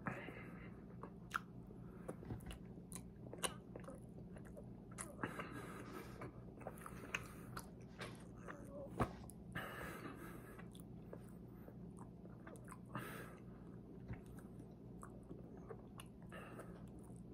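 A person chewing and eating a chocolate-glazed eclair close to the microphone: soft wet chewing with many scattered sharp mouth clicks. A steady low hum runs underneath.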